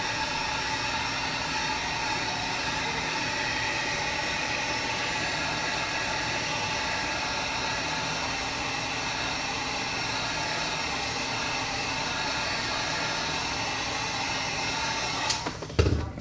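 Heat gun blowing steadily with a faint whine, warming the edges of the glass to soften its adhesive. It cuts off about a second before the end, followed by a thump.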